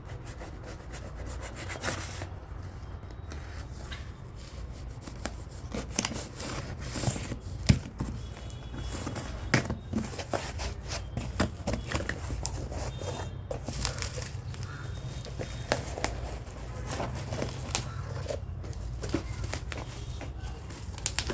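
Packaging being handled and opened: irregular rubbing, scraping and rustling with scattered clicks and knocks, over a steady low hum.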